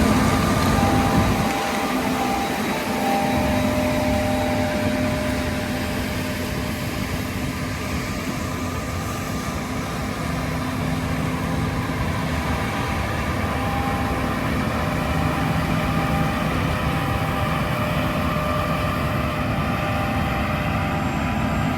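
John Deere S780 combine with a Shelbourne Reynolds XRS36 stripper header running steadily while harvesting barley: a continuous machine drone with several steady whining tones.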